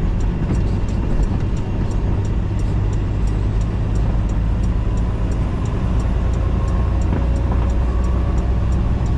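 Semi truck's diesel engine and tyre noise droning steadily inside the cab while cruising at highway speed.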